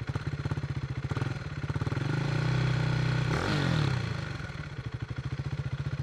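KTM RC 390's single-cylinder engine through an SC Project slip-on exhaust with its dB killer fitted, blipped at standstill: a short rev about a second in and a longer rev held from about two to three and a half seconds in, dropping back to a pulsing idle.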